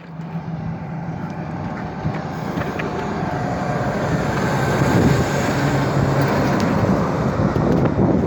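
Peterbilt 389 truck approaching and driving past, its diesel engine and tyre noise growing louder to a peak about five seconds in.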